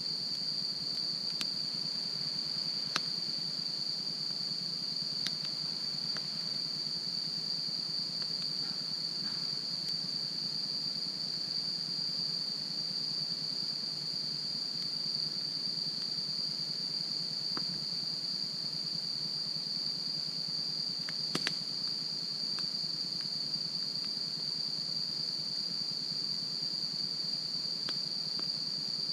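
Steady, high chirring of crickets, with a wood campfire crackling now and then in scattered sharp pops, the loudest about three quarters of the way through.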